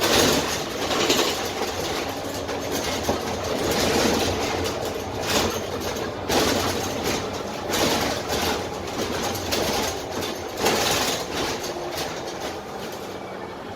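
Interior of a Dennis Trident double-decker bus under way, heard from the lower deck: its Cummins ISMe diesel and road noise run steadily, with body panels and windows rattling. The clatters swell and fade every second or two, loudest near the start and about eleven seconds in.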